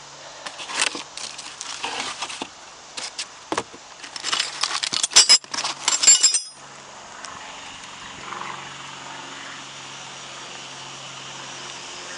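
A butter knife is tapped with a hammer and scraped into the seam between a Toyota Corolla's steel oil pan and the engine block, to break the old gasket seal. There is an irregular run of metallic clicks and scrapes, and several sharp ringing metal strikes about five to six seconds in. Then it stops.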